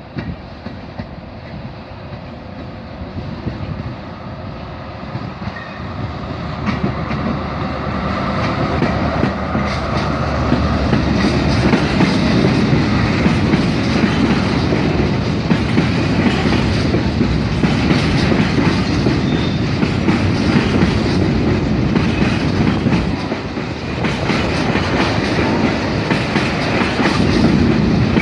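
A train approaching and passing close by, growing louder over the first ten seconds, then a sustained heavy rumble with wheels clattering rhythmically over the rail joints.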